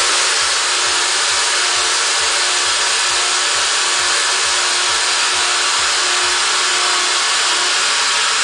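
Electric train running at speed, heard from the driver's cab: a loud, steady rush of wheels on rails and air, with a faint hum that comes and goes.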